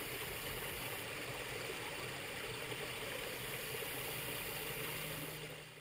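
Steady rushing noise, like running water or hiss, fading out near the end.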